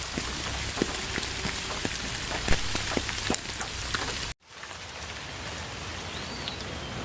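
Steady rain falling, with individual drops striking sharply close by. About four seconds in, the sound cuts out for a moment and comes back softer and more even, a splice between two rain recordings.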